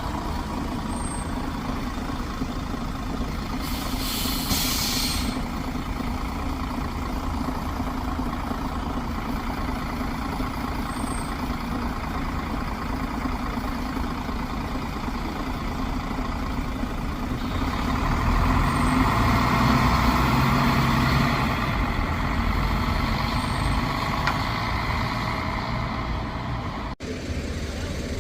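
Buses running with a steady low engine rumble. A short air-brake hiss comes about four seconds in, and a bus engine grows louder for several seconds in the second half as one passes or pulls away.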